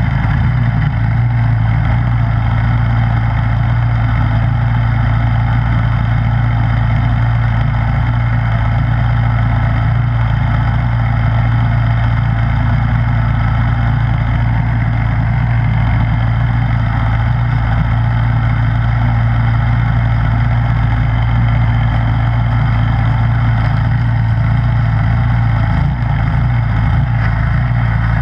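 Snowblower engine running steadily at a constant speed, with a strong low hum.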